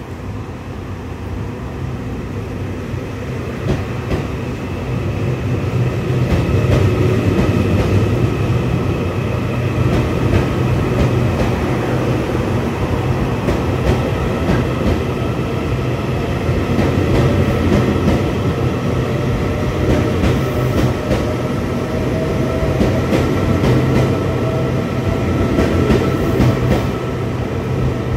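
A train running on rails: a rumble that builds over the first six seconds or so and then holds, with a faint steady whine above it and scattered clicks of the wheels over the track.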